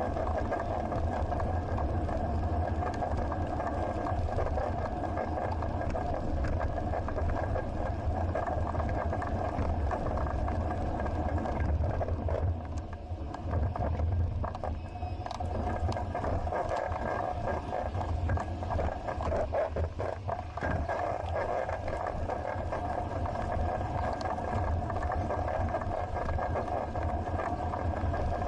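Steady wind rush and rolling noise of a bicycle on the move, with a deep rumble underneath. The noise eases briefly near the middle, and a few sharp knocks come about two-thirds of the way through.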